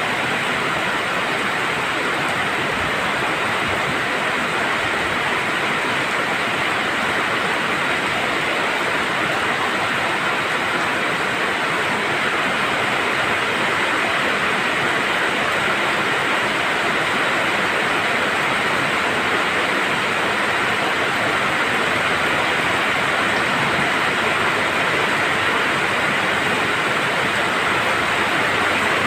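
Steady rainfall: an even hiss that holds without a break.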